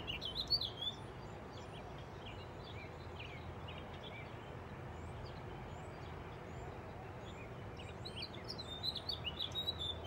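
Several songbirds chirping and singing, with short high calls throughout that are busiest near the start and again near the end, over a steady low background noise.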